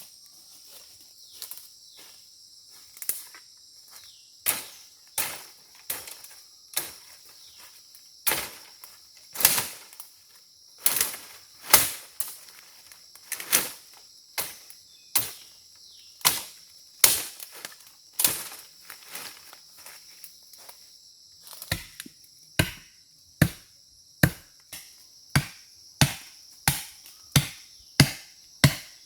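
Chopping strokes of a blade into wood, roughly one a second, with a short pause about two-thirds through and quicker strokes after it. Insects keep up a steady high chirring underneath.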